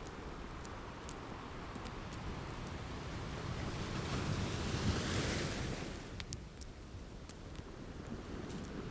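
Ocean waves washing ashore, one wave swelling and breaking about five seconds in before easing off, with the sharp pops of a crackling wood fire scattered throughout.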